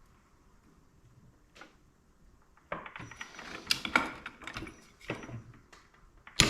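Torque wrench and hand tools working the clutch nut: a run of rapid metallic clicks and rattles starting about two and a half seconds in, then a sharp loud click near the end as the nut is brought to 58 ft-lb.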